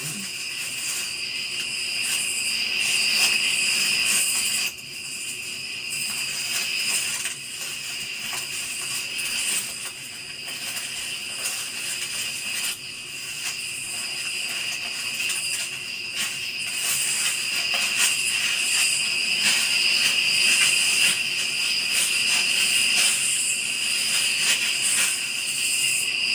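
Steady chorus of night insects, continuous high-pitched trilling in several layered bands with no let-up.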